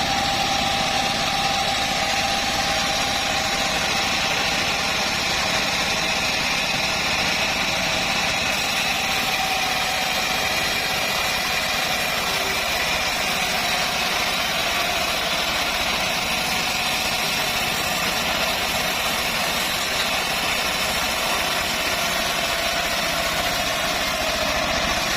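Homemade bandsaw mill running steadily, a continuous machine drone with a high whine that holds nearly level throughout.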